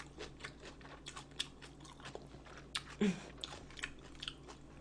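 Close-miked chewing and biting of food, a run of small wet mouth clicks and crunches. A brief low hum from the eater about three seconds in.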